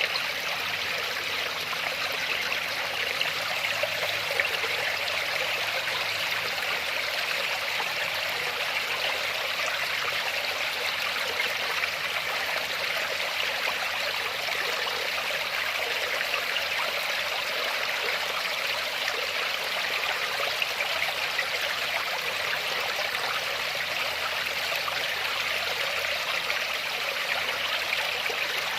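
Waterfall: water falling and splashing in a steady, unbroken rush, mostly hiss with little deep rumble.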